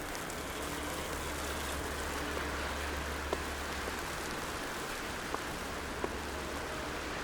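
Downtown street ambience in wet snow: a steady wash of noise with a low hum, like an idling engine, through the first five seconds or so, and a few faint clicks.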